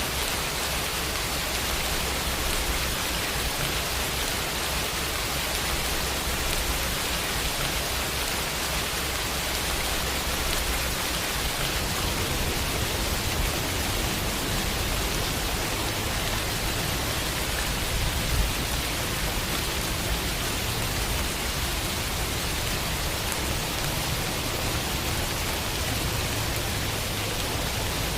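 Steady rain falling on a window, an even hiss of many drops with no lulls.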